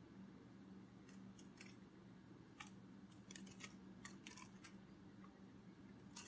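Near silence: faint, irregular soft clicks in small clusters over a low steady hum.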